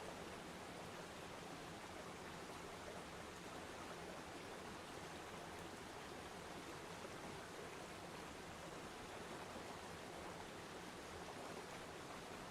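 Waterfall: water falling and splashing with a steady, even rush that does not change.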